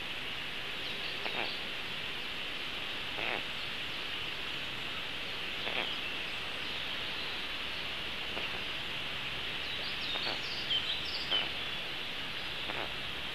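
Steady hiss with scattered brief bird calls from the surrounding forest, coming more often and loudest near the end.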